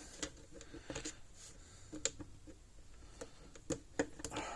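Scattered small clicks and taps of plastic case parts being handled while a solar fence charger is taken apart.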